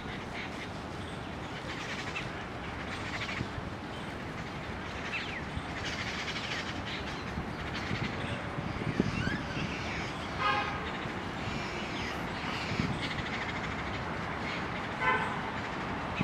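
Birds chirping with short, scattered calls over a steady low rumble of distant vehicles. Two brief pulsed calls come about ten and fifteen seconds in.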